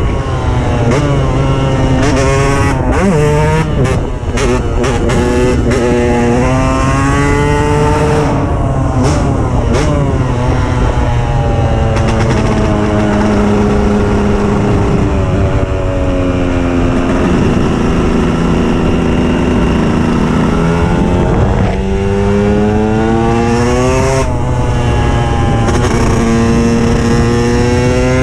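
KTM 125 EXC two-stroke single-cylinder engine under hard acceleration, its pitch climbing and dropping back again and again as it is run up through the gears. Midway it holds steadier, falls away, then pulls hard again.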